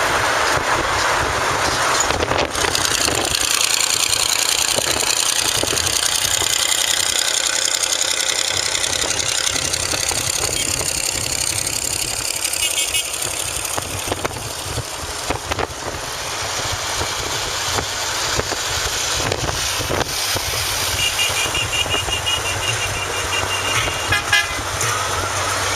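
Motor vehicle running with steady road noise, and a horn tooting in short repeated beeps near the end.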